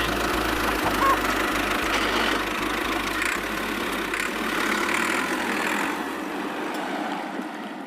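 A small motor running steadily with a dense mechanical whirr, easing off slightly near the end.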